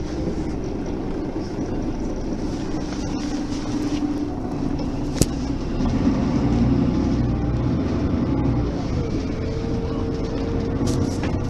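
Mercedes-Benz Citaro Facelift city bus running, its engine and drivetrain a steady drone, with a single sharp click about five seconds in and a steady higher tone for about two seconds towards the end.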